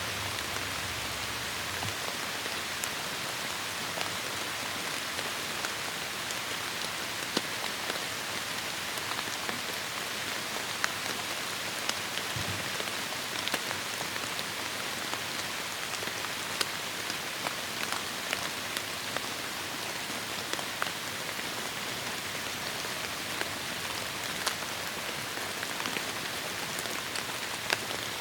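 Heavy rain falling steadily in a forest, a dense even hiss dotted with sharp individual drop hits.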